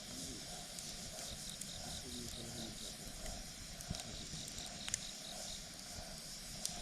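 Campfire burning with scattered sharp crackles and pops over a faint hiss, while an insect, likely a cricket, chirps steadily at a high pitch about four times a second.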